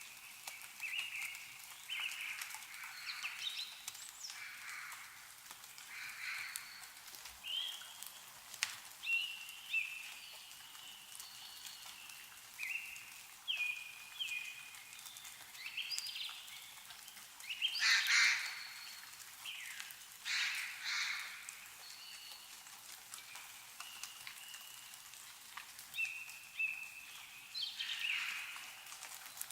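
Several birds chirping and calling in short repeated notes, the loudest calls about 18 and 21 seconds in, with scattered drips of meltwater falling from snow-laden trees.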